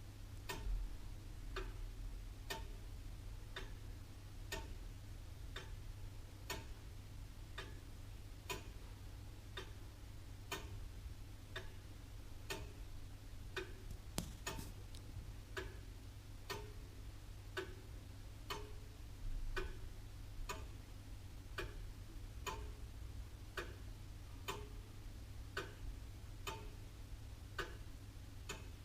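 Antique William Holliwell of Liverpool clock ticking steadily, about one tick a second, over a faint low hum.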